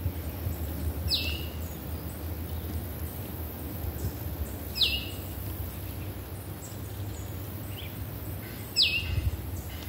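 A bird calling three times, about four seconds apart, each call a quick, sharply falling whistle. A low steady rumble lies underneath.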